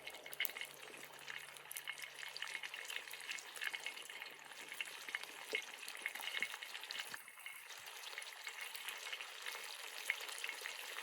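Food frying in hot oil: a steady sizzle dotted with small crackles and pops.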